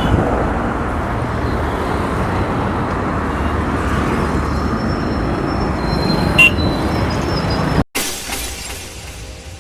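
Steady road and traffic noise with wind rush, heard from a motorbike riding through city traffic. About eight seconds in it cuts off abruptly, and a short fading sound follows.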